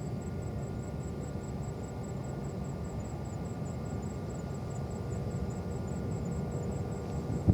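Steady low rumble of distant jet aircraft noise across the airport, growing slightly louder toward the end.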